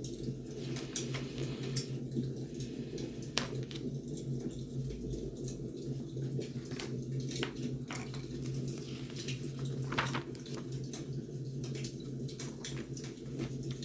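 Wood fire burning with irregular crackles and pops over a steady low hum; the sharpest pops come about three seconds in and again about ten seconds in.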